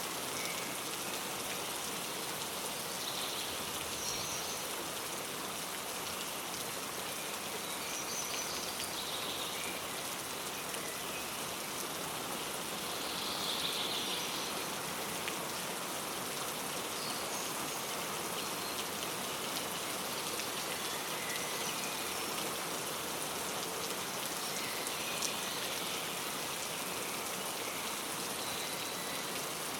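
Steady rain falling, with brief faint bird chirps here and there.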